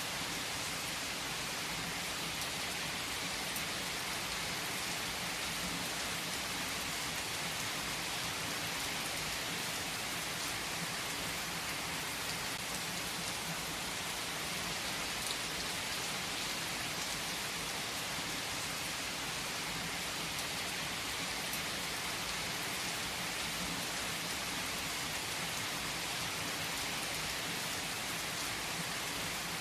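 Steady rain falling as an even hiss, with a few single drops ticking out of it now and then.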